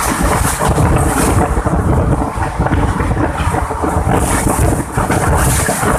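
Loud wind buffeting the microphone over the rumble of a moving train, in uneven gusts.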